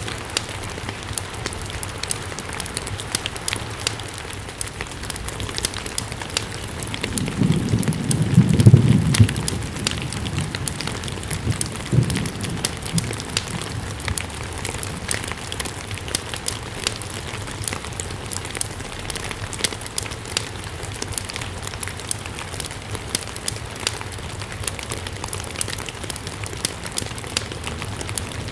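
Steady rain with frequent sharp pops and crackles from a burning wood fire. A low rumble swells and fades about a third of the way in, followed a few seconds later by a shorter low thud.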